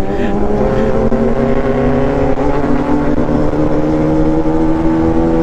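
Honda CB400 Super Four's inline-four engine running hard at high, steady revs under way, its pitch creeping slowly upward, with wind rush underneath.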